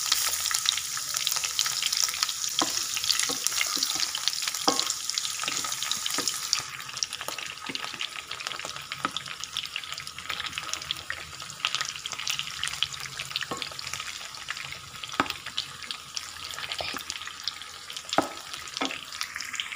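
Marinated chicken pieces sizzling as they shallow-fry in hot oil in a nonstick pan, turned partway through cooking, with scattered sharp ticks and pops. The sizzle is loud for the first six or seven seconds, then drops suddenly and carries on quieter.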